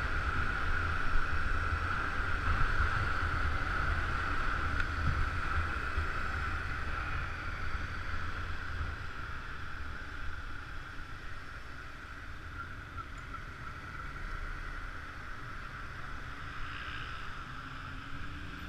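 Wind and road noise on the microphone of a moving motor scooter, with a low rumble and a steady hum; it eases off and grows quieter over the second half.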